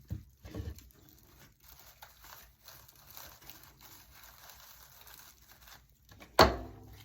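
Dry raffia strands rustling and crinkling as they are handled and pressed into hot glue, with small clicks. About six seconds in there is one short, loud bump.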